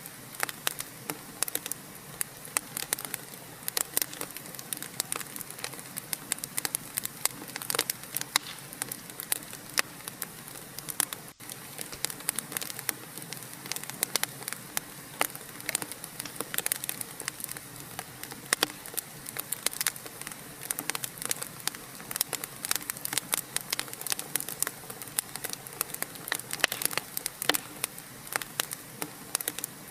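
Wood fire crackling, with many quick, irregular pops and snaps over a steady hiss; the sound drops out for a split second about a third of the way through.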